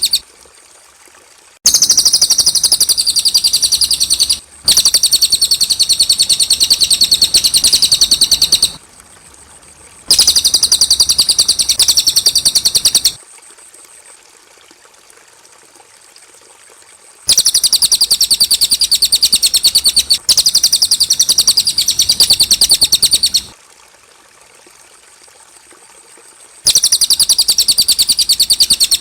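Cililin bird singing: repeated bursts of a fast, high, chattering trill, each lasting about three to four seconds, with short pauses between them.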